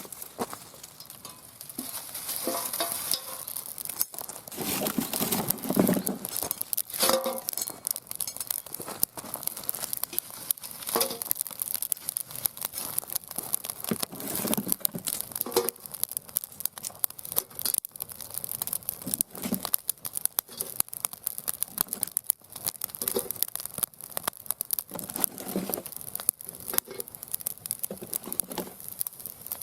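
Mixed firewood burning in a steel fire stand, crackling with a dense, irregular stream of sharp pops and snaps and now and then a brief squeal.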